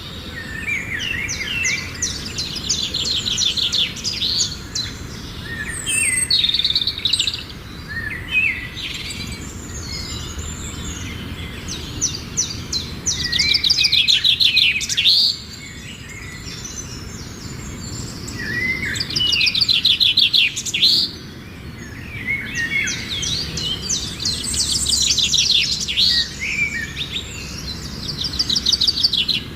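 Songbirds singing in woodland: one phrase after another of rapid trilled notes, often overlapping, with hardly a gap.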